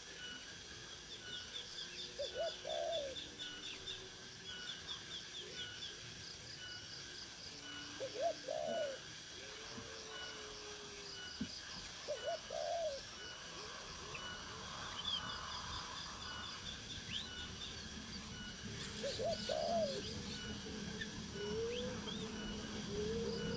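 Birds calling: short, low-pitched calls repeat every few seconds over faint, rapid high trills.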